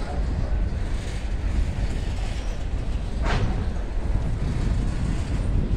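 Slow-moving freight train of hopper wagons rolling past, a steady rumble of wheels on rail with one sharp clank about three seconds in.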